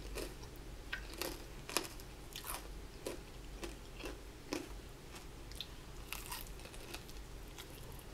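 Close-up chewing and biting of a crispy fried chicken wing dipped in nacho cheese sauce: irregular crunches of the fried coating, about one or two a second, with softer wet chewing between them.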